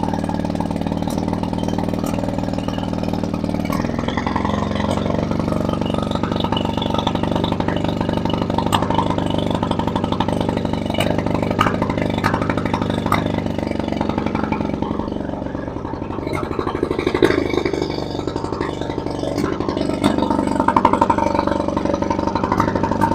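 Viking 15 hp two-cylinder two-stroke outboard motor running steadily on a flushing hose, its speed shifting a few times, with a dip around the middle and a pick-up near the end. It runs nicely, with no exhaust leak after the manifold was resealed.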